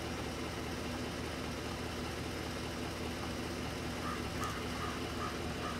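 A stopped car's engine idling with a steady low hum. About four seconds in, a run of short, evenly spaced high chirps joins it, two or three a second.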